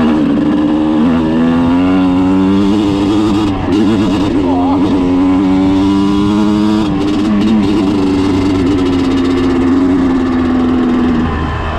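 Yamaha two-stroke dirt bike engine under way, revving up and easing off several times in the first half, then holding a fairly steady pitch with a slight drop near the end.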